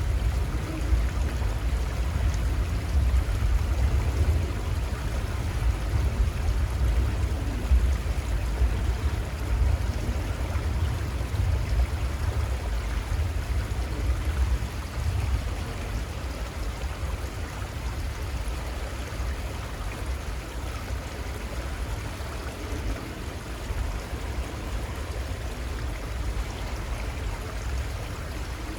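Little Conestoga River flowing: a steady rush of moving water with a heavy, uneven low rumble beneath it that eases a little about halfway through.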